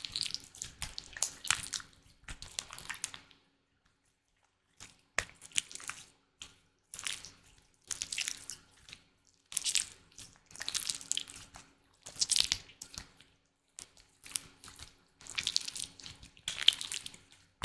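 Slime worked close to the microphone: repeated bursts of wet clicking and popping, one every second or so, with a short pause about four seconds in.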